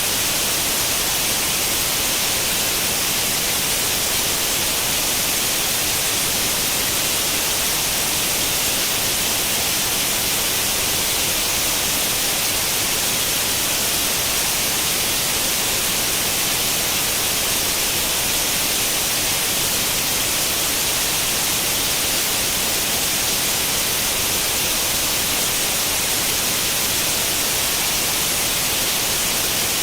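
Steady white-noise hiss like the static of an old CRT television with no channel tuned, even and unchanging, with most of its energy in the high range.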